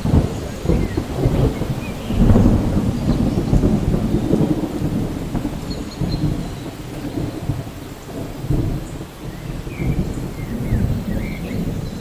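Steady rain with a low, rolling rumble of thunder that swells about two seconds in.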